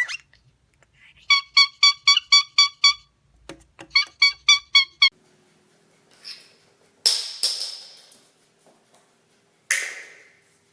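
Cockatiel whistling two quick runs of repeated identical chirping notes, about five a second, followed by two sudden hissing bursts that fade away.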